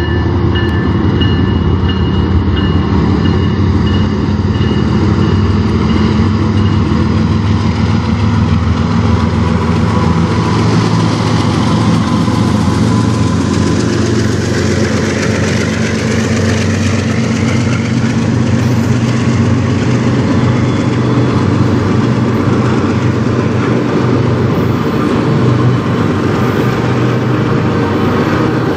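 CN freight train going by: the diesel locomotive's engine running as it approaches and passes, then autorack cars rolling past with wheels clattering over the rail joints. A bell rings repeatedly for the first several seconds.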